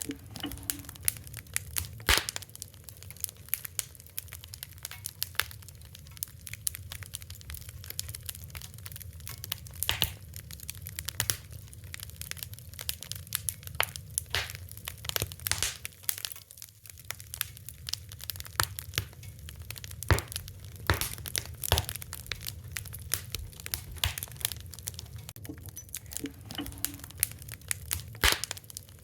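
Wood fire crackling: irregular sharp pops and snaps, a few louder ones scattered throughout, over a steady low rumble of the flames.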